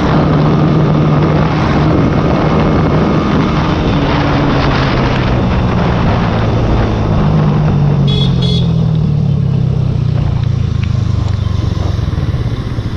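Small single-cylinder sport motorcycle engine running under way, its note rising and falling with the throttle. Two short high beeps sound about eight seconds in, and the engine eases off near the end.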